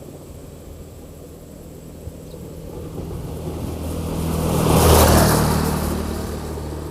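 A motor vehicle drives past: its engine grows louder, is loudest about five seconds in, then fades away.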